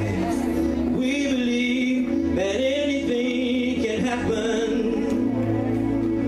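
Gospel praise-and-worship music: a singer holding long notes that slide from one pitch to the next, over a steady instrumental accompaniment with bass.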